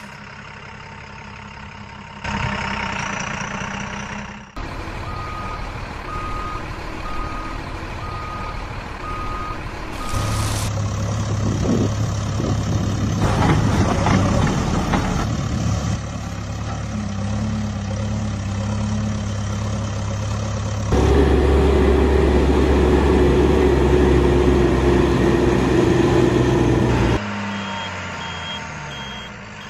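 Heavy construction-vehicle engine sound running in several abruptly cut segments. A reversing alarm beeps steadily for several seconds early on and again, higher-pitched, near the end. The engine is loudest for a stretch about two-thirds of the way through.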